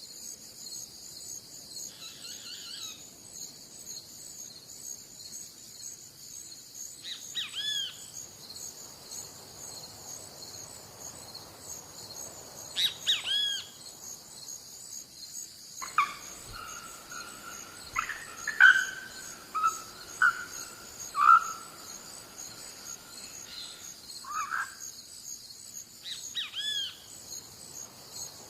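Wild birds calling: short separate calls every few seconds, with a run of several louder calls in a row in the middle, over a steady high-pitched chorus of insects.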